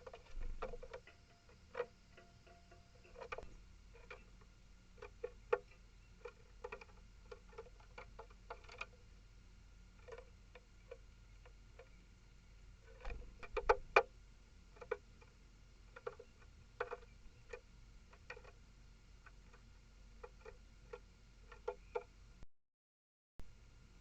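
Irregular sharp taps and clicks on a bird table, from small animals pecking at frozen food. They come a few a second with short pauses, and are loudest in a cluster about halfway through.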